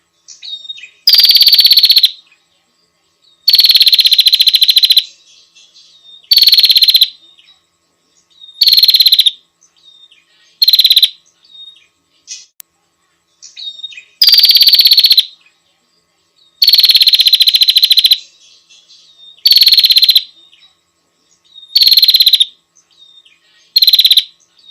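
A female prinia (prenjak) giving loud, rapid rattling calls, the call a female uses to summon a male. The calls come as two matching series of five, the first ones long and the later ones shorter, with faint short chirps between them.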